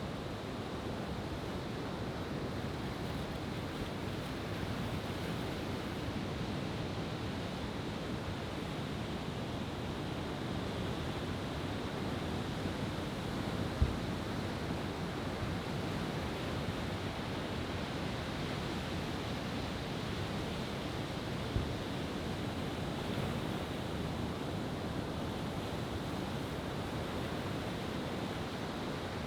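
Steady wash of sea surf. Two brief low thumps break through, about 14 seconds in and again about 21 seconds in.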